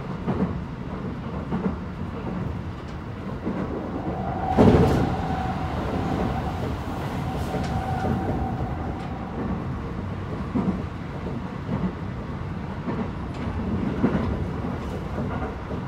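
Running sound inside a Keikyu 1000 series electric train car: steady rumble with wheels clicking over rail joints. There is a loud knock about four and a half seconds in, and a steady mid-pitched tone from then until about halfway.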